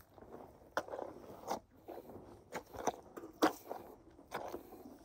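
An animal chewing and eating, with a series of irregular sharp crunches.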